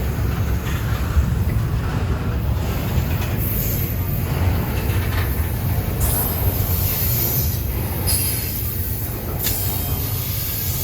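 Freight train rolling past with a steady low rumble of the cars, while high-pitched wheel squeal comes and goes in stretches.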